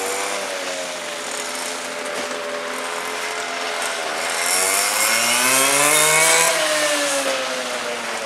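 Small two-stroke petrol engines of 1:5-scale RC race cars running at speed, the whine steady at first, then rising in pitch and loudness from about four seconds in to a peak near six and a half seconds and falling away as a car passes.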